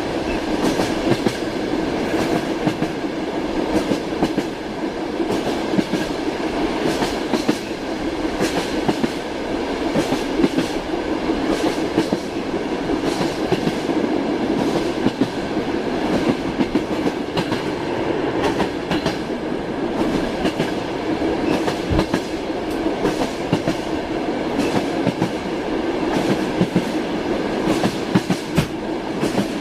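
Moving train: wheels clacking over rail joints again and again above a steady rumble.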